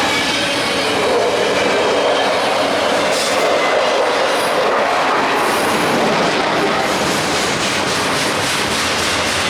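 A train rolling along the track, steady and loud, with wheels clicking over rail joints and some wheel squeal.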